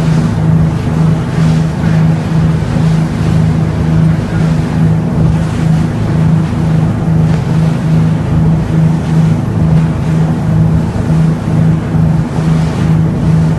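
Boat engine running steadily under way, a loud low drone that pulses evenly a few times a second.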